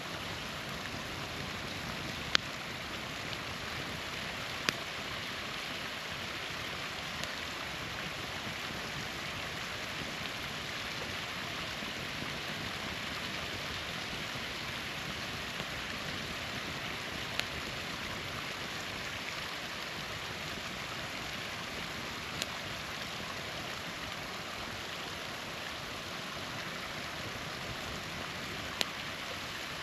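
Small waterfall running steadily, with a campfire crackling: a few sharp, loud pops scattered through, the loudest about two seconds in.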